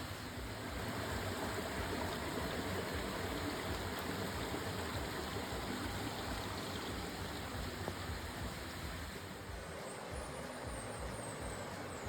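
Steady rushing of flowing water, like a rainforest stream. A few short, high, falling chirps come near the end.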